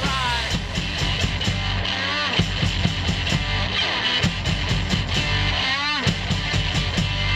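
A rock band playing live: electric guitar, bass, drums and tambourine, with two rising pitch slides.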